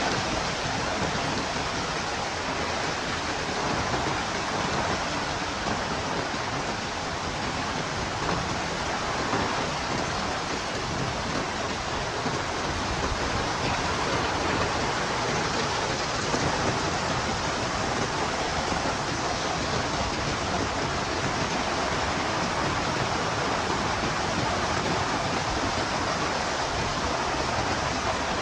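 Heavy rain pouring in the wind, a steady dense hiss that keeps an even level throughout.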